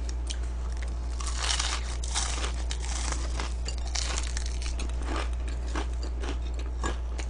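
Close-miked chewing and crunching of crispy fried chicken, irregular crunches every half second or so, over a steady low hum.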